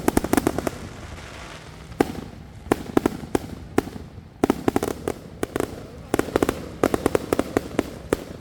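Backyard fireworks going off: rapid clusters of sharp bangs, several volleys a second or two apart, with a few single reports between them.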